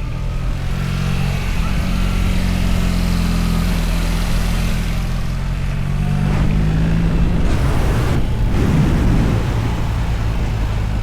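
Motorcycle engine running while riding, its pitch drifting as the revs change, with a spell of rushing noise a little after eight seconds in.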